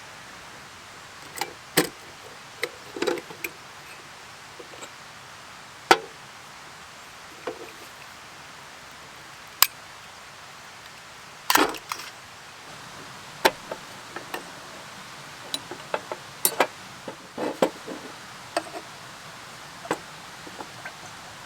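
Irregular sharp knocks and clicks, some single and some in quick clusters, over a steady hiss of rain.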